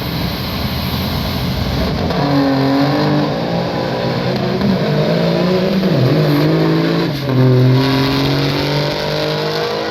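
Modified diesel semi-truck engines at full throttle in a drag-strip pass, the pitch climbing and then dropping back at each gear change, several times.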